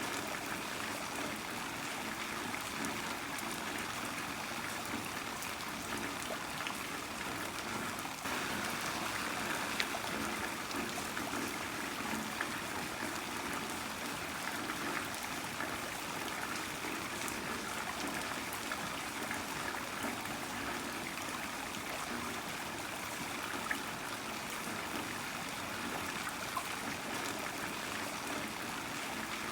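Heavy rain falling steadily, with scattered ticks of individual drops and a trickling, running-water sound of runoff; it gets slightly louder about eight seconds in.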